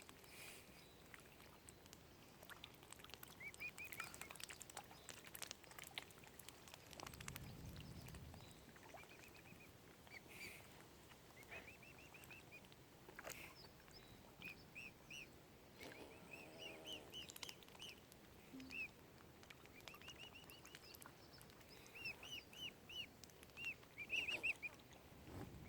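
Mute swan cygnets peeping faintly: short, high chirps in quick runs of three to five, repeated again and again. A single lower call comes about two-thirds of the way in.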